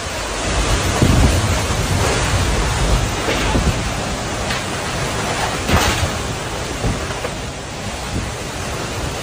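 Storm wind and rain of a tornado passing close by, a dense rushing noise. It has a few brief louder surges, about a second in, around three and a half seconds and near six seconds.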